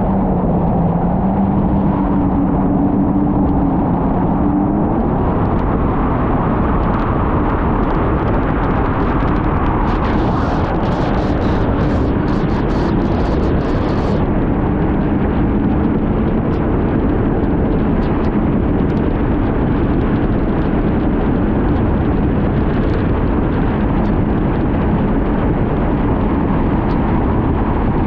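Supercharged four-cylinder engine of a Kawasaki Ultra 310LX jet ski running at full throttle near top speed, buried in wind and water rush over slightly rough water. The engine note climbs in the first few seconds, then holds steady, with a spell of sharp crackling noise from about ten to fourteen seconds in.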